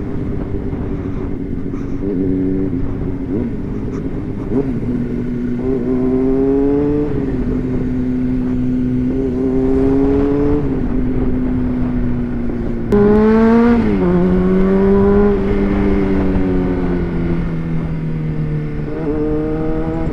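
Honda CBR600RR inline-four engine running under way. Its pitch rises under throttle several times and drops back between, with a sudden louder surge about two-thirds of the way through.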